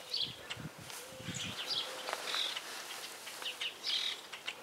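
Small birds chirping, with short high calls scattered throughout, and a few soft low thuds in the first second and a half.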